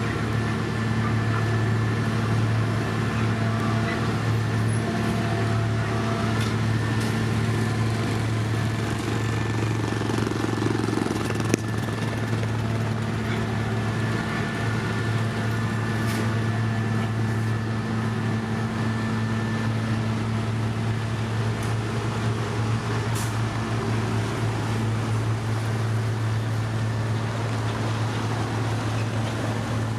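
Diesel engine of heavy road-paving machinery running steadily at one constant speed, a low even hum, with a single sharp click about midway.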